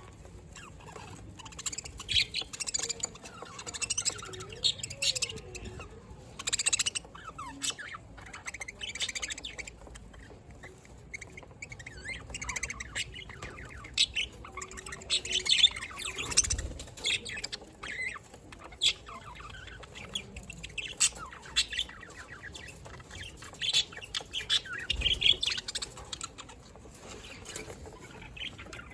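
Budgerigars chirping and warbling in a constant, busy chatter, with sharp squawks here and there.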